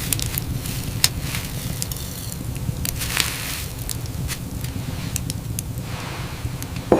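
Irregular crackles and pops over a steady rushing rumble, with one louder thump near the end.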